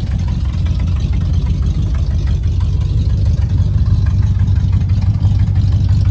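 1977 Ford F350's 400 V8 idling steadily, with a little exhaust leak.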